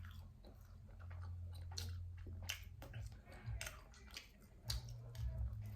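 A person chewing food close to the microphone, with many short, irregular wet smacks and clicks of mouth and lips. A low steady hum runs underneath.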